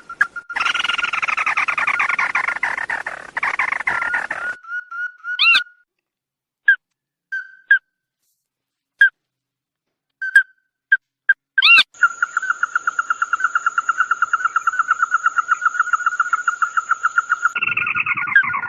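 Calls of the bird known in Vietnamese as the 'red-eyed bird' (chim mắt đỏ): a dense, falling trill at the start, then scattered short chips separated by silent gaps, then a long, fast, even trill on one pitch from about twelve seconds in.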